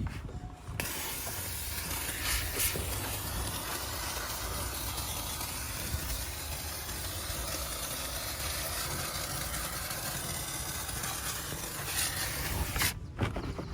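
Steam cleaner's jet hissing steadily. It starts about a second in and cuts off near the end.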